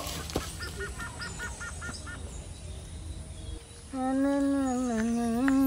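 A bird gives a quick run of about eight short chirps. About four seconds in, a man starts a long, level humming tone.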